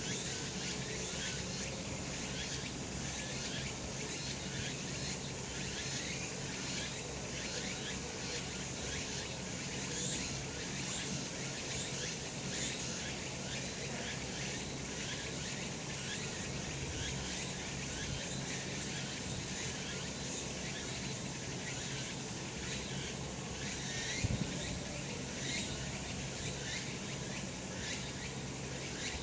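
Cicadas singing in a dense, steady, unbroken chorus, with a single brief tap about 24 seconds in.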